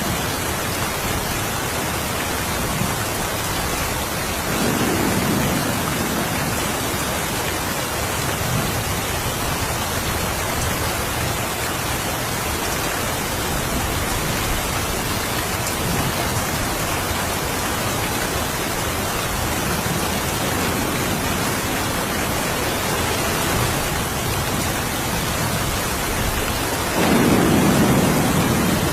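Steady rain falling, with low rolls of distant thunder, one about five seconds in and a louder one near the end.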